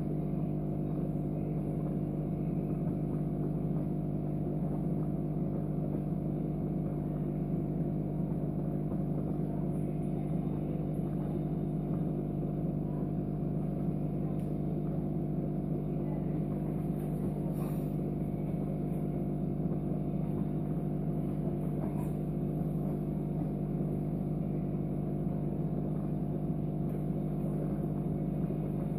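Steady electrical hum and buzz, unchanging throughout.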